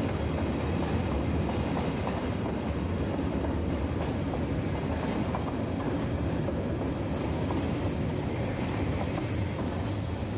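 SBB Brünig line metre-gauge passenger coaches rolling past on the track, a steady rumble with clatter from the wheels.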